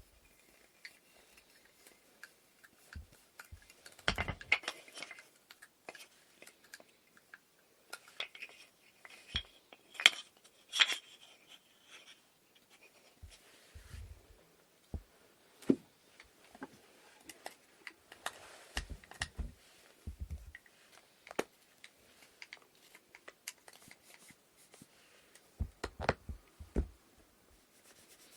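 Parts of a wooden inkle loom being handled and fitted together: irregular knocks, clicks and light clinks with short scraping, in separate bursts with quiet gaps.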